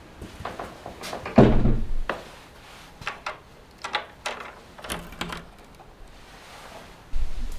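Knocks and clunks of things being handled in a small wooden room: one heavy thump about a second and a half in, then several lighter knocks and clicks, and a low burst of noise near the end.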